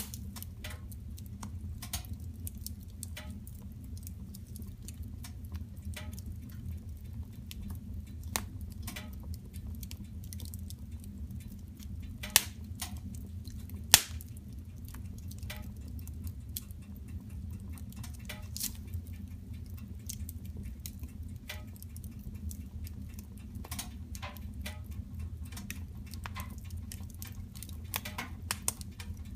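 Wood fire crackling in a fireplace: irregular snaps and pops over a steady low hum, with two louder pops about twelve and fourteen seconds in.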